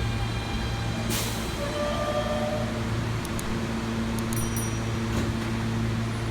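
R160B subway train standing at the platform with a steady electrical hum from its equipment. There is a brief hiss about a second in and a few short high tones near the middle.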